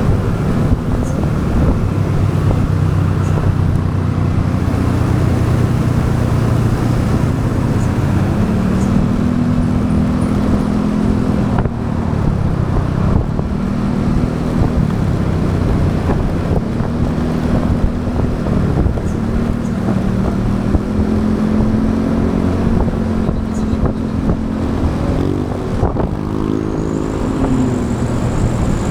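Motorbike engine running while riding, with steady road noise. The engine pitch rises and falls several times as the throttle changes, and it climbs more steeply near the end. A thin, high squeal joins in at the very end.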